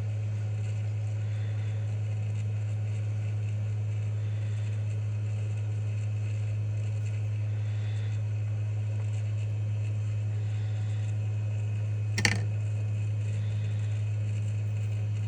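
A steady low hum throughout, and about twelve seconds in a single sharp click as the two stacked layers of an iPhone 12 logic board are pried apart with a plastic spudger and tweezers.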